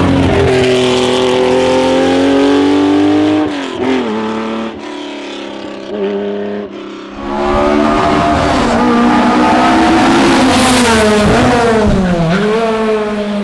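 Classic racing car engine running hard on a hillclimb, its pitch climbing and then dropping at a gear change. The engine sound dips for a few seconds in the middle, then comes back loud and climbing, with another gear change near the end.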